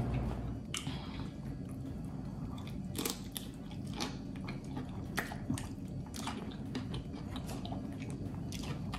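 Close-up mouth sounds of biting and chewing a broccoli floret dipped in thick cheesy sauce: irregular crunches and wet clicks.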